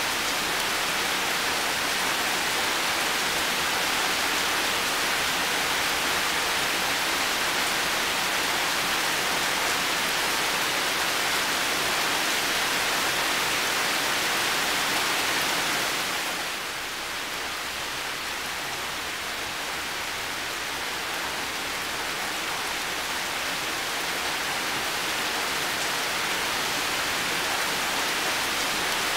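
Heavy rain falling steadily, a dense even hiss. About halfway through it softens slightly and loses some of its brightness, then gradually builds back up.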